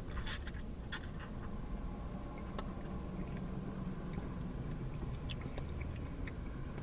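Soft chewing with a few faint scattered mouth clicks over a steady low background hum.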